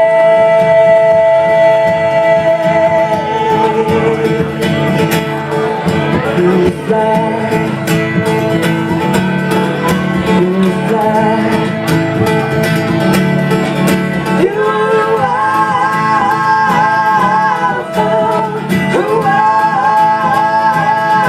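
Live acoustic band playing, with strummed guitars under singing. A held sung note opens it, and a wavering vocal line carries through the last several seconds.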